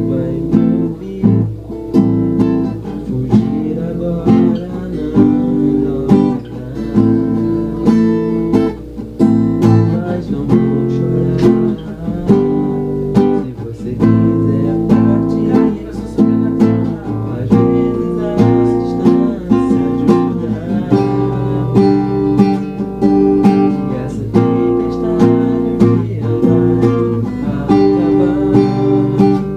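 Acoustic guitar strummed in a steady, even rhythm, playing chords.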